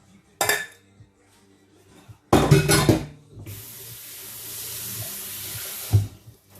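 A brief clink of dishes, then a louder clatter of pots and dishes, followed by a kitchen tap running steadily for a couple of seconds and ending with a knock.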